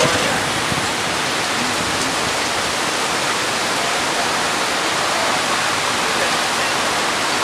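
Heavy downpour with floodwater rushing across the street and into a roadside drain: a loud, steady hiss of rain and running water.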